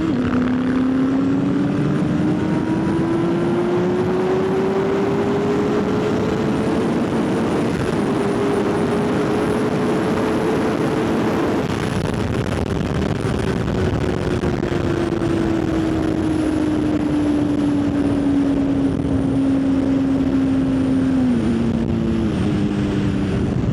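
Motorcycle engine pulling hard under acceleration, its pitch climbing steadily for about eight seconds, then slowly falling as the bike eases off, with a small drop near the end, over a steady rush of noise.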